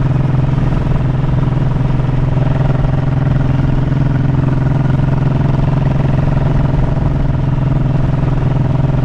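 Honda motorcycle engine running steadily at a constant cruising speed, an even drone that neither rises nor falls.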